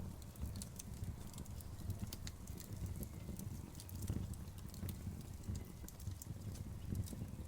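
Wood fire crackling, with irregular sharp snaps and pops over a low, steady rumble.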